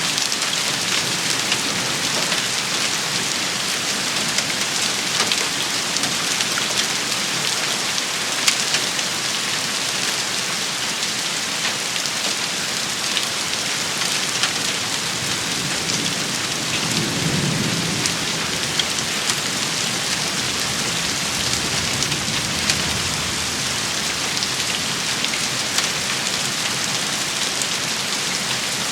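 Steady rain shower pattering on a surface, with scattered sharp ticks of drops striking. About seventeen seconds in, a low rumble of thunder rolls under the rain.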